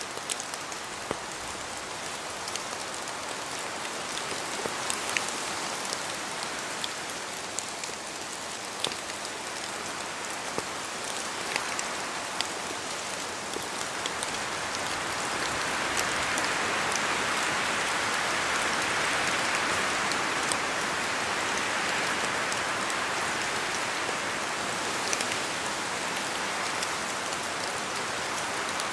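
Steady rain falling in a forest, with many separate drops ticking sharply against leaves. From about halfway the rushing grows louder for several seconds, then eases off toward the end.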